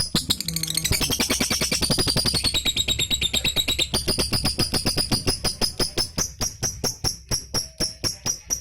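Lovebird singing a long 'ngekek' chatter: a fast, unbroken run of sharp, high, evenly repeated notes, several to about ten a second, quickening and sweeping in pitch in the middle.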